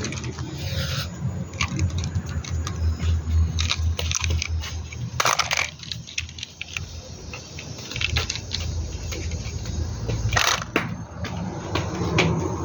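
Small hard plastic toys being handled, with irregular clicks, knocks and clatter over a steady low hum.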